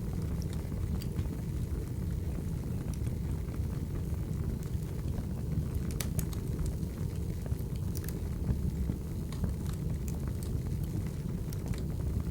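Crackling wood fire: a steady low rumble of burning logs with sharp pops and snaps scattered through it, a few louder snaps around the middle.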